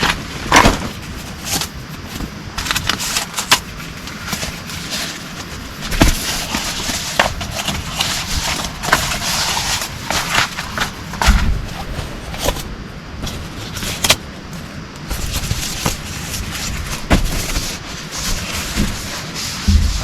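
Heavy rain falling: a steady hiss, dense with sharp taps of individual drops, and a couple of brief low thuds.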